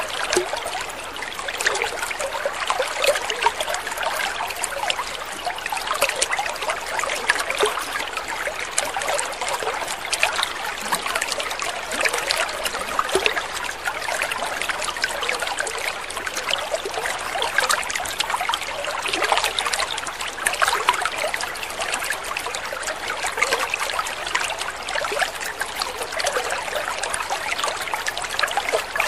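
Water trickling and splashing steadily, a continuous babble of many small quick splashes with no pauses.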